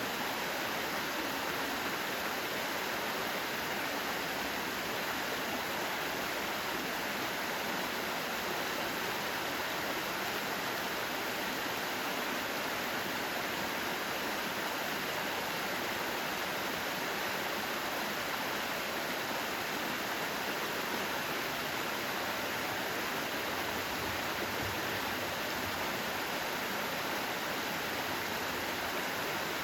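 Mountain valley stream flowing, a steady, even rush of water that does not change.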